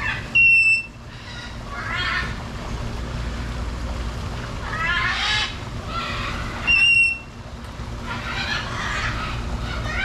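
Birds squawking and calling in an aviary, with two loud, clear whistles, one just after the start and one about seven seconds in. A steady low hum runs underneath.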